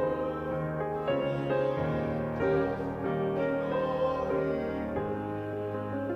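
Slow instrumental keyboard music, held notes moving from chord to chord.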